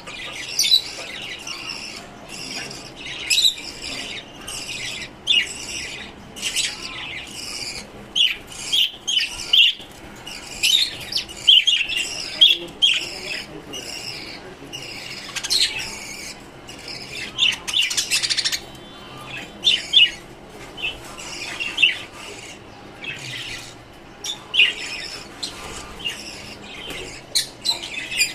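Lovebirds and finches chirping and squawking, many short, sharp calls overlapping without a break.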